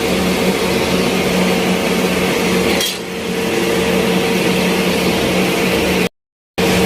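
Electric flour-mill machinery running with a steady hum and whirr; the sound breaks off completely for about half a second near the end.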